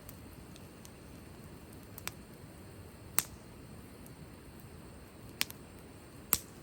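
Wood fire crackling: a low steady hiss broken by four sharp pops, the loudest a little after three seconds and just before the end.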